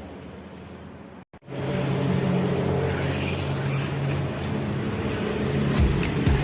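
WLToys A969-B 1:18 RC short course truck driving, its electric motor and drivetrain running with a steady hum after a brief cutout about a second in. A few knocks come near the end.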